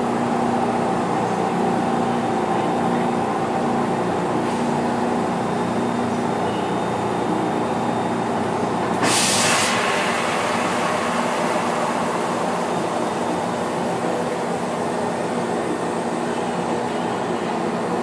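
Cabin of a Kintetsu 16200 series 'Blue Symphony' train standing at a station: a steady hum of onboard equipment with a few constant tones. About nine seconds in there is a short, sharp hiss of released air.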